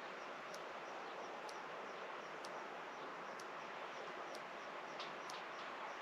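Outdoor countryside ambience: a steady hiss with a short, high chirp repeating evenly about once a second, and fainter, quicker chirps behind it.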